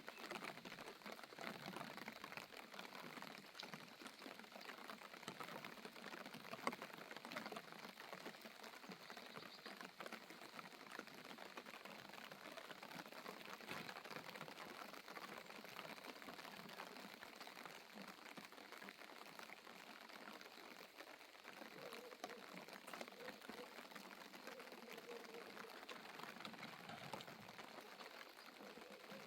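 Light rain falling steadily, a faint, even patter of many small drops.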